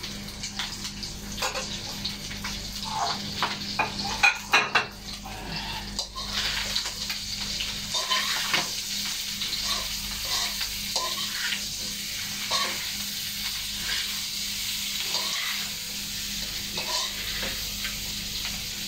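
Tofu frying in a wok, sizzling while a metal spatula stirs and scrapes it against the pan. Sharp clinks of utensils and dishes come in the first few seconds, and the sizzle grows louder about six seconds in.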